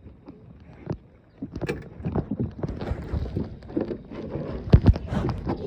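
Irregular clatter and knocks of fishing gear being handled in a small boat, with one loud knock near the end.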